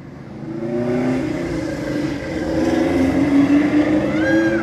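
A car driving past: its engine and tyre noise swell about a second in and hold, with the engine note sliding slowly. A short high call sounds near the end.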